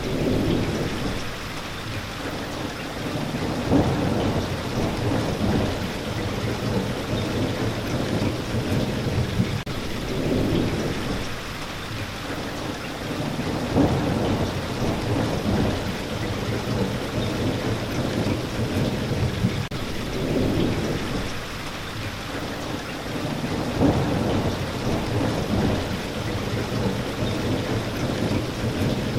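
Steady heavy rain, a continuous even hiss, with low rumbles that swell and fade every few seconds and a few brief sharper peaks.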